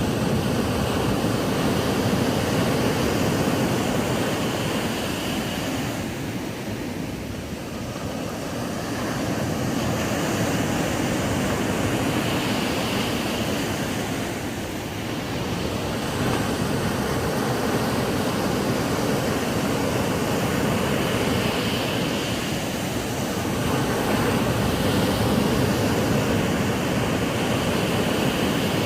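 Ocean waves breaking on a sandy beach: a steady rush of surf that swells and eases every several seconds, with no single distinct crash.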